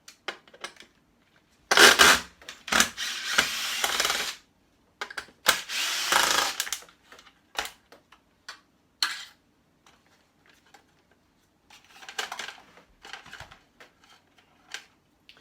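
Hand tools being handled: a knife put away and a flat screwdriver picked out, with two bursts of rattling and clattering about two and five seconds in, and scattered clicks and knocks.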